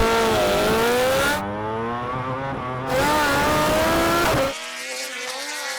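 A racing motorcycle engine accelerating hard from a standing start, its pitch climbing and then dropping at each upshift, about three shifts in a row, then running steadier and quieter near the end.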